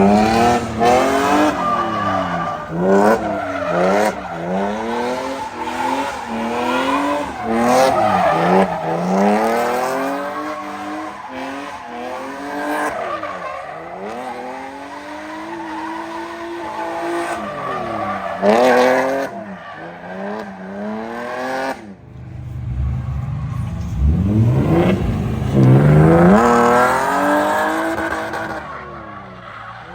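Car engine revving hard up and down again and again, as in drifting, with tyres squealing and skidding. It drops off briefly about two-thirds of the way through, then climbs again.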